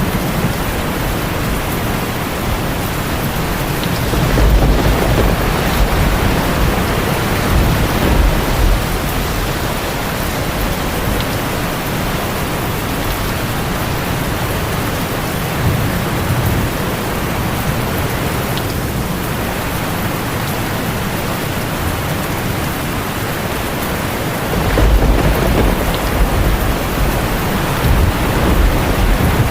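Heavy rain pouring on a tin roof, a steady hiss, with low thunder rumbling about four seconds in and again near the end.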